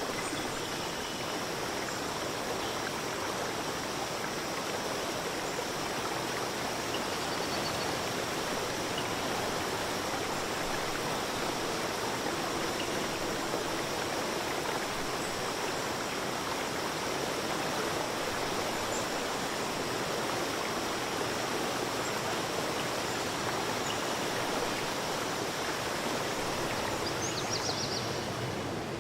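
A clear forest river or stream flowing: a steady, even rush of water.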